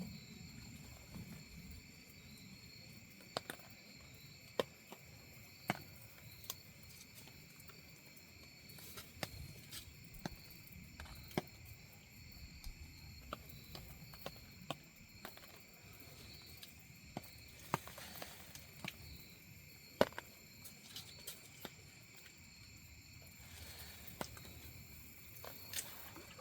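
A steady, high chorus of night insects, crickets among them, with scattered faint sharp ticks and taps at irregular moments, the clearest about 20 seconds in.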